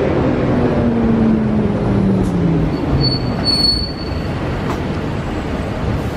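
Train sound with a steady rumble and a whine that falls in pitch over the first few seconds. A brief high squeal comes about three and a half seconds in.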